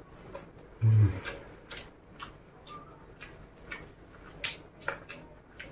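Close-up chewing of raw leafy greens, with crisp crunches and clicks at an irregular pace, and a short low thud about a second in. Near the end, a fresh leaf rustles as it is folded by hand.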